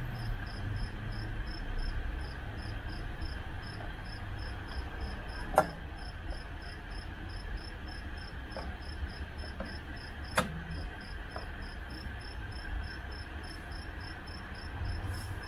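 Cricket chirping steadily, a high-pitched pulse about four times a second, over a low hum. Two sharp clicks sound, about five and ten seconds in.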